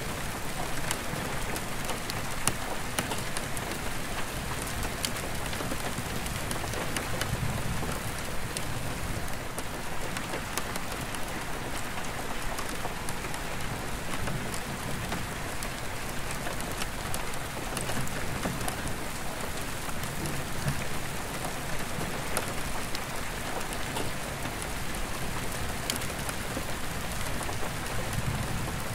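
Steady rain falling on an attic skylight's glass, heard from inside, with many single drops ticking sharply against the pane. Low rumbles of distant thunder swell and fade now and then.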